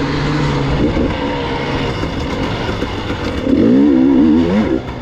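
Gas Gas EX 300 two-stroke enduro motorcycle engine running under the rider, its revs rising and falling with the throttle, and a louder burst of revving near the end.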